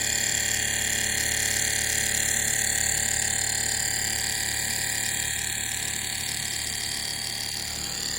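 Stirling engine running steadily: a continuous whir with high steady tones over a fast, even flutter.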